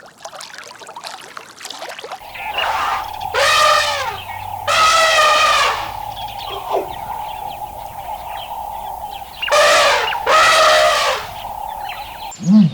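An animal calling: four drawn-out cries in two pairs, over a steady high-pitched hum in the background.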